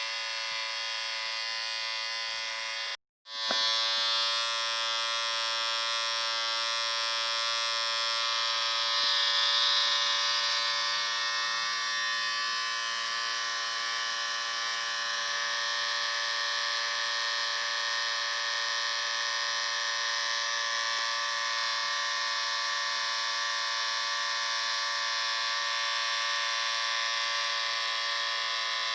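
Electric shaver buzzing steadily with a dense, even hum. It cuts out for a split second about three seconds in, then runs on unchanged.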